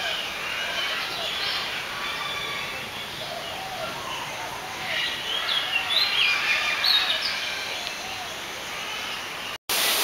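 Several birds chirping and calling, a dense mix of short high chirps and whistles that is busiest around five to seven seconds in. Near the end it cuts to the steady rush of a waterfall.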